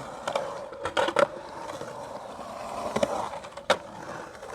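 Skateboard rolling through a skatepark bowl, its wheels rumbling steadily, with several sharp clacks from the board. The sharpest clack comes about three and a half seconds in.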